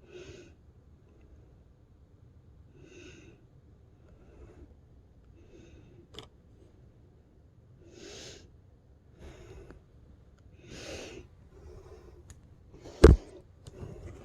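A person breathing audibly near the microphone, a soft breath every one to three seconds. There is a small click about six seconds in and a sharp knock about thirteen seconds in.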